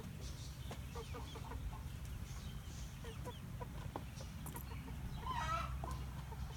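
Backyard chickens clucking softly in short, scattered low clucks, with one louder, longer call about five and a half seconds in. A steady low rumble runs underneath.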